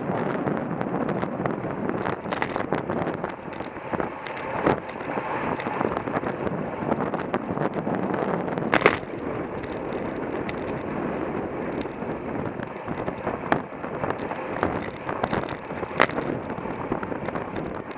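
Wind rushing over the microphone of a camera mounted on a racing bicycle in motion, with the rattle of the bike over the road and scattered sharp knocks, the loudest about nine seconds in and again near the end.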